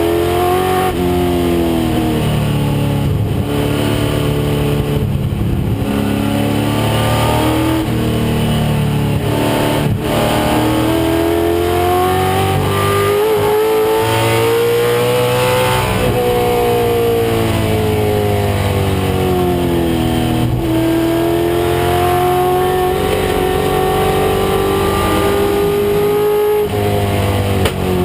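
A 1996 Mustang race car's engine at full racing load, its pitch climbing in long pulls and dropping back several times at gear changes and corners.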